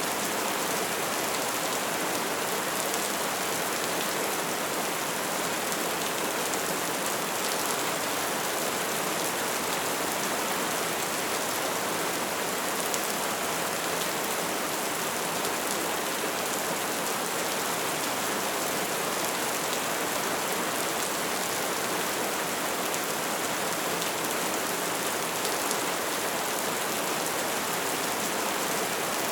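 An open fire crackling steadily, a dense, even hiss of many small crackles that does not let up.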